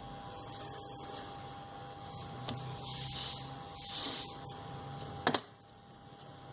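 Pencil scratching strokes along a paper strip, in several short swishes with a light tick between them, then a sharp double knock near the end as something hard is set down on the table.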